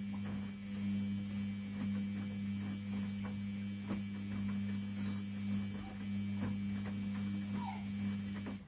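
Washing machine drum turning: a steady motor hum with faint clicks and knocks from the tumbling load, cutting off abruptly near the end as the drum stops.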